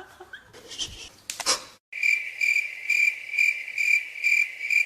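A steady high-pitched chirping trill that pulses about twice a second, starting after a short break about two seconds in, preceded by brief rustling noise.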